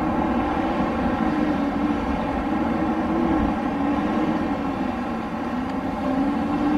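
Wind blowing steadily, with a low howling tone that slowly rises and falls in pitch.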